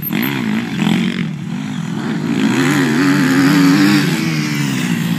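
Motocross bike engine revving, its pitch rising and falling with the throttle several times and held highest about three to four seconds in.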